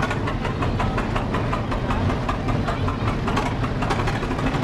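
Vintage tractor engine running slowly as it passes, with a rapid knocking beat.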